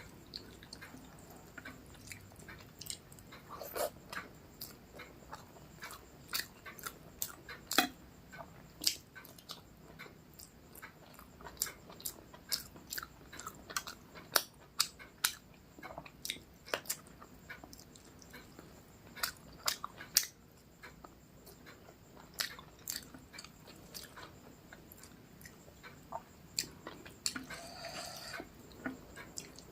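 Close-miked eating sounds: a person chewing rice with chicken and egg curry, with irregular wet mouth clicks and smacks. A short higher-pitched sound comes near the end.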